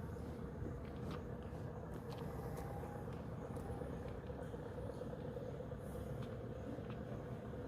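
A steady low mechanical rumble with a faint steady hum, with a few faint clicks.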